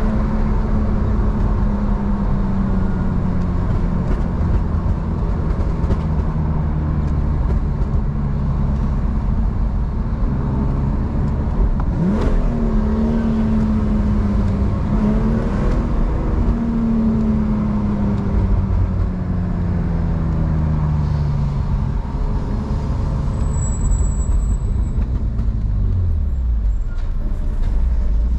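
BMW E46's engine running under way, its note rising and falling slowly several times with a quick sharp rise about twelve seconds in, over a steady low road rumble.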